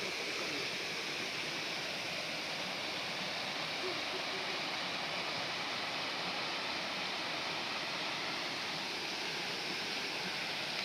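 Steady, even rushing noise with no breaks, pitch changes or distinct knocks.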